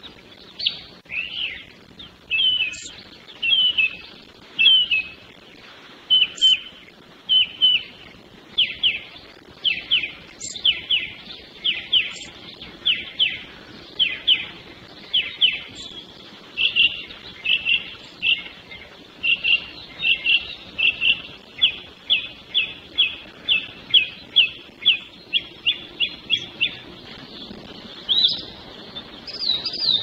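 Songbirds singing: a long run of quick, repeated whistled notes, about two or three a second. A different, higher-pitched phrase starts near the end.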